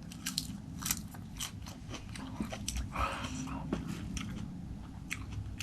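Close-up mouth sounds of someone chewing and biting raw-fish sashimi, with many small, irregular wet clicks.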